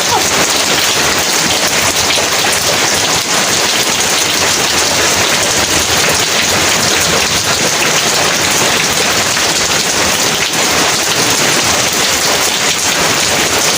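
Heavy rain falling steadily and evenly, a dense unbroken hiss of drops on surfaces.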